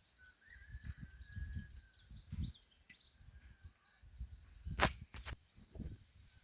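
Rural outdoor ambience with faint bird chirps and a short whistled call, over irregular low rumbles. Two sharp clicks come close together about three-quarters of the way through.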